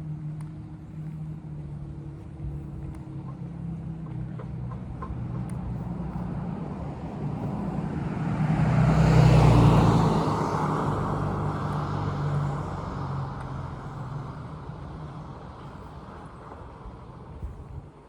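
A car driving past on the street: engine hum and tyre noise grow louder, peak about halfway through, then fade away.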